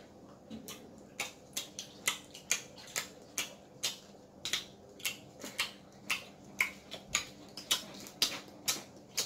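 Mouth smacking while chewing seafood with the mouth open: a run of short, wet clicks, about two to three a second.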